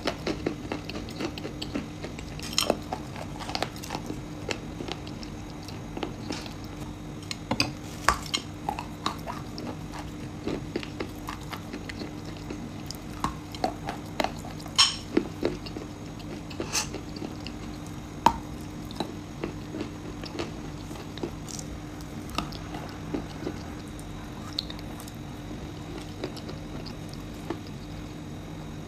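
Close-miked biting and chewing of hard, crunchy pieces of chalk, clay and nuts: irregular sharp crunches, several of them loud, with quieter chewing in between.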